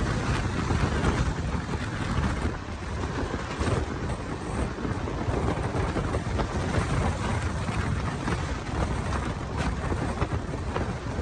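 Wind rushing and buffeting on a microphone held out of a moving LHB passenger coach, over the steady running rumble of the train at speed.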